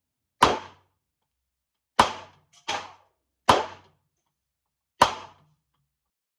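Taurus G3 9mm pistol firing: five sharp shots with brief echoing tails, spaced about a second and a half apart, the third coming quicker and softer than the rest.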